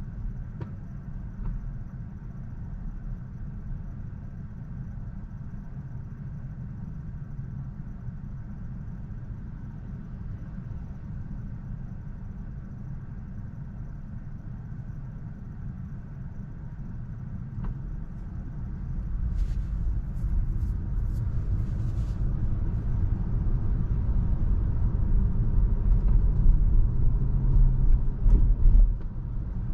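Low road and tyre rumble of a Tesla electric car driving, growing louder about two-thirds of the way in, with a few short sharp clicks or knocks around then and near the end.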